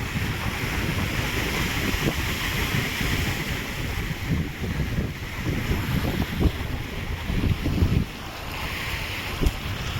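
Ocean surf washing steadily, with wind buffeting the microphone in uneven gusts; the wind rumble is the loudest part.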